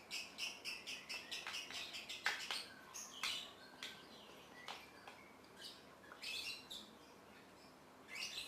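Homemade slime being squeezed and kneaded by hand, trapped air popping out in a fast run of small crisp clicks for about three seconds, then scattered pops and a short burst of clicks near the end.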